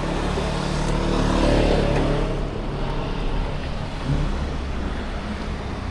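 Road traffic: a car's engine passing close by, swelling to its loudest about a second and a half in and then fading, over steady traffic noise.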